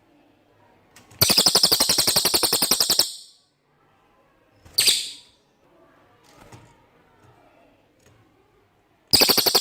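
Cililin songbird singing. A fast, high trill of about ten notes a second lasts about two seconds, a single short sharp note follows a couple of seconds later, and a second trill starts near the end.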